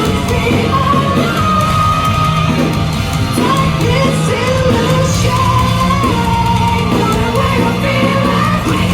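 A loud live rock band playing, with a singer's melody held over heavy guitars, bass and drums.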